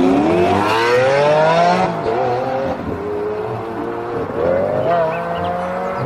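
Sports-car engine revving: its pitch climbs steadily through the first two seconds, settles back to a lower steady note, then rises again about four and a half seconds in.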